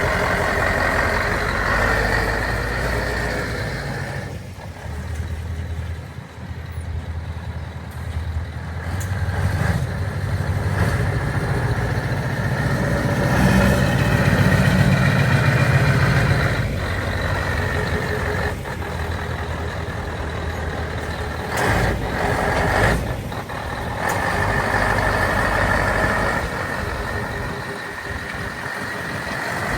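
Scania R164 580 tractor unit's 16-litre V8 diesel running at idle, with steady low engine tones that grow louder for a few seconds in the middle. A couple of short sharp sounds come about two-thirds of the way through.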